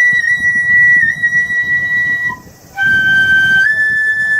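A flute playing slow, long-held high notes. One note lasts about two seconds, then after a short break a lower note steps up partway through. A low background rumble runs underneath.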